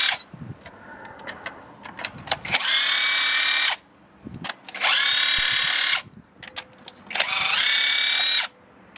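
Power tool spinning out cylinder head bolts on a Mazdaspeed 6 engine: three short runs, each about a second long, rising in pitch as the motor spins up and then holding steady, with clicks of metal handling between them.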